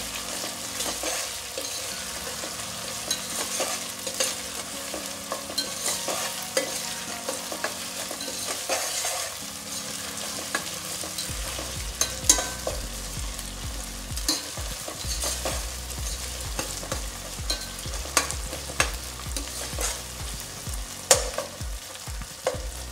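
Chopped onions and ginger-garlic paste sizzling in hot oil in a stainless steel pot, stirred with a perforated steel spoon that clicks and scrapes against the pot many times. The paste is being fried until its raw smell is gone.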